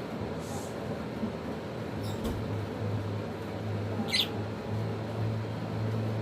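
A few brief high-pitched squeaks from pet lovebirds, the clearest about four seconds in, over a steady low hum.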